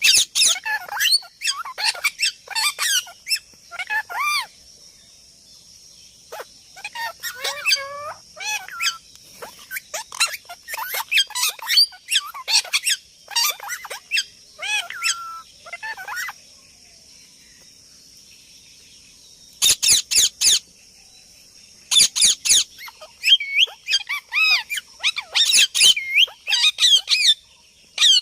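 A parrot making rapid runs of short chirps, whistles and squawks that glide up and down in pitch, falling quiet for a few seconds midway before starting again. A steady high hiss sits beneath the calls.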